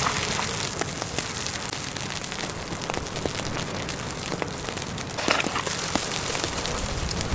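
Snow pattering on tent fabric: a steady hiss dotted with many light, scattered ticks, with a brief louder rustle about five seconds in.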